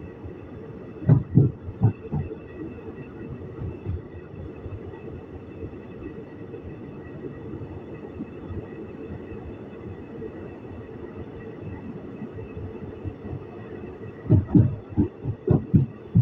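Steady running rumble of an Indian Railways ICF passenger coach heard from on board, with clusters of clacks as the wheels pass over rail joints about a second in and again near the end.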